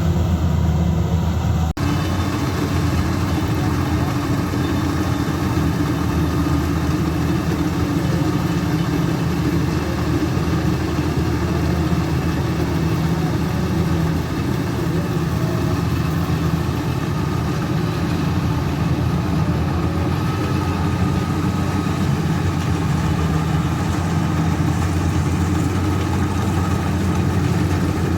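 Combine harvester engine running steadily with a low, even hum. Just under two seconds in the sound dips and changes abruptly, then runs on steadily.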